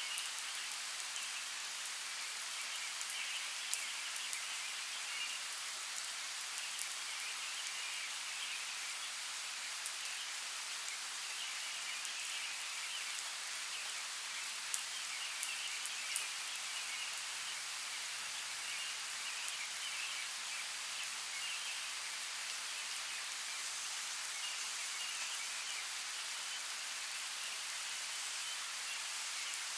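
Steady rain falling, an even hiss with a few sharper, louder drop hits scattered through it.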